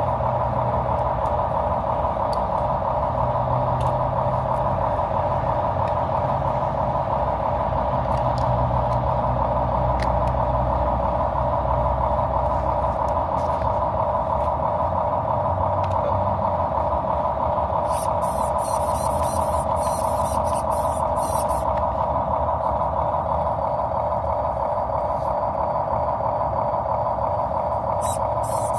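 Mini RC boom truck running: a steady mechanical hum with a shifting low rumble underneath and a few light clicks past the middle.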